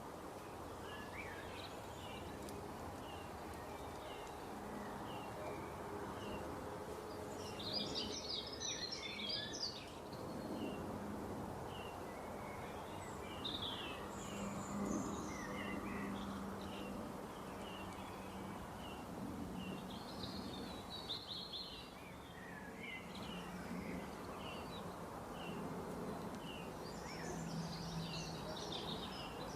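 Birds chirping over a steady background hiss: a short chirp repeats about once a second, with several brief bursts of livelier song.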